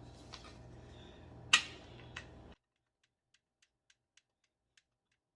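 Light clicks and one sharp click of furniture parts or hardware being handled, then the sound cuts off to near silence about two and a half seconds in, leaving only faint ticking.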